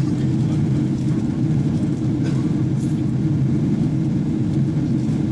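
Steady low rumble of airflow and engine noise inside the passenger cabin of a Boeing 777-300ER in flight, even throughout.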